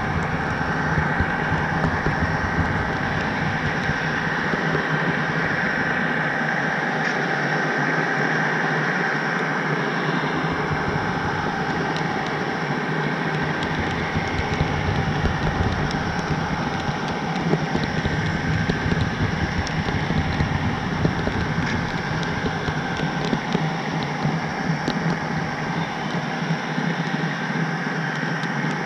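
HO-scale model train running along the track: a steady mechanical hum with a constant whine and faint scattered ticks.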